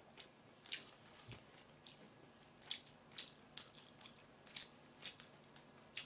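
Faint mouth sounds of a person chewing food close to the microphone: about a dozen short, irregular clicks and smacks.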